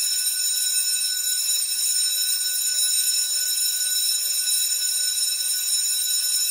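A steady, unbroken, high-pitched electronic alarm tone, several pitches sounding together at a constant level.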